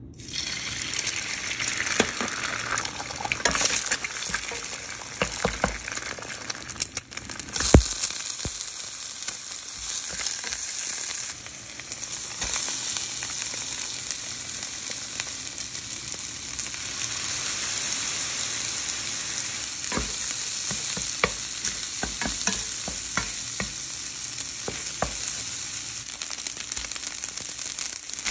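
Egg, then rice and shrimp, frying in hot oil in a nonstick pan, with a steady sizzle that starts as the eggs go in. A spatula stirs through it with scattered scrapes and taps against the pan, and one sharp knock comes about a third of the way in.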